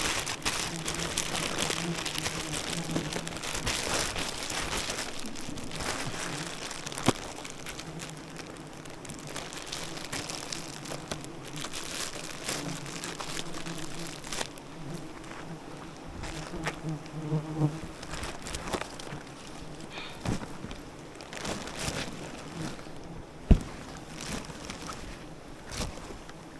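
Wild bees buzzing close by, a low drone that swells and fades several times, with scattered rustling and a sharp knock about 23 seconds in.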